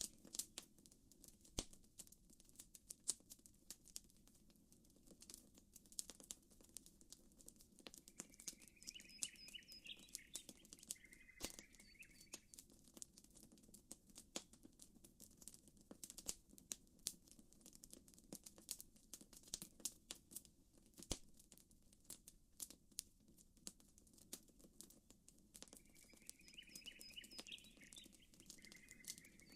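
Campfire crackling, with frequent sharp pops and snaps over a steady low wash of lapping water. A bird's chirping call comes twice, about a third of the way in and again near the end.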